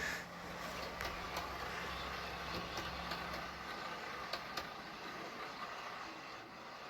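Model train running on the layout: a steady hum with scattered light clicks.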